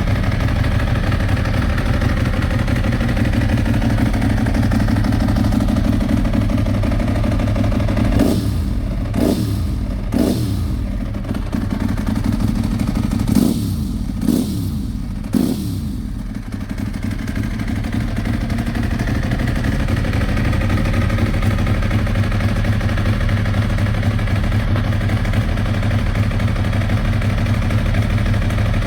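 2007 Ducati 1098S's L-twin engine idling through a full Termignoni exhaust. It is blipped three times in quick succession about eight seconds in, then three more times a few seconds later, each rev dropping straight back to idle.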